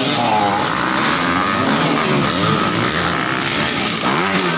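Several dirt bike engines revving up and down at once, their pitches rising and falling over each other as the bikes race.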